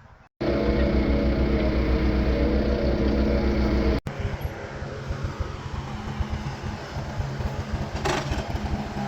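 An engine running steadily with a strong low hum. After a cut about four seconds in, an engine runs rougher and a little quieter, with an uneven low pulsing.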